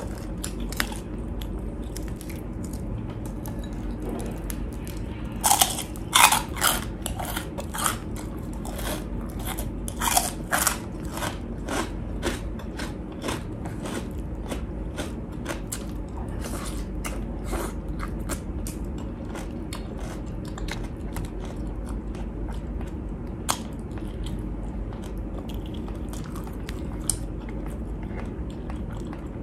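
Close-miked biting and chewing of crispy chicharon (deep-fried pork rind): a quick run of loud, sharp crunches about five seconds in, easing into quieter, sparser chewing.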